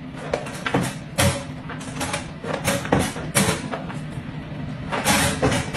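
Wire door of a plastic pet crate rattling and clanking irregularly as a dog pushes against it and slides under it.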